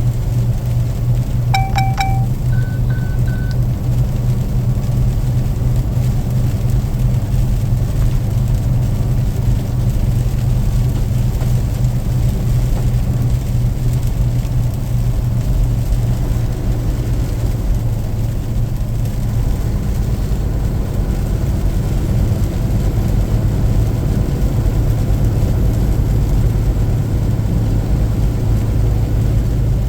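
Steady low road and engine drone of a moving car, heard from inside the cabin. A little under two seconds in comes a short electronic tone, followed by three quick higher beeps.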